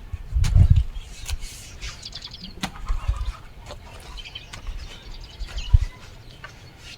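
Chickens clucking and small birds chirping, with a few low thuds and sharp clicks in between, the loudest thuds near the start and toward the end.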